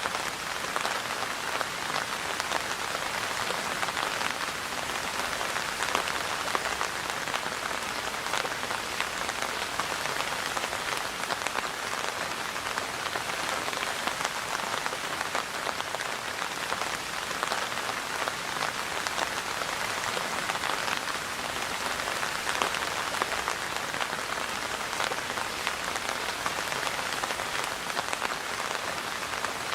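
Steady rain falling, a dense even hiss of many individual drops striking a surface, unchanging in strength throughout.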